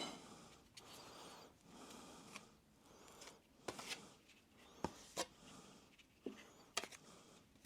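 Faint handling sounds: light scraping and rubbing, with a few sharp clicks and taps scattered through the middle and near the end.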